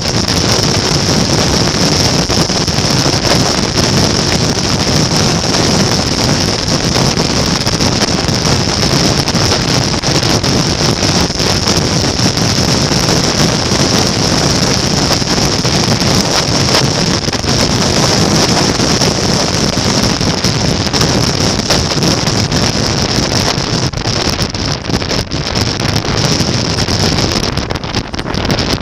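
Steady rush of wind on the microphone mixed with the running noise of a moving motorcycle, holding an even level throughout.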